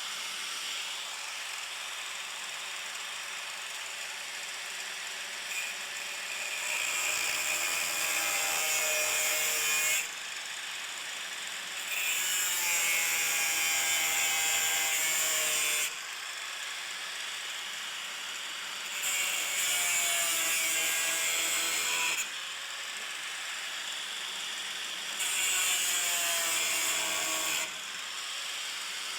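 Power tool cutting sheet metal in four long bursts, with a steady hiss between them. During each cut the pitch slides down slightly as the tool loads up.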